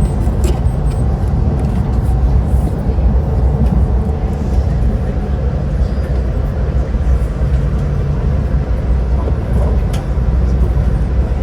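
Passenger train running, a steady low rumble heard from inside the carriage, with a few light clicks and rattles.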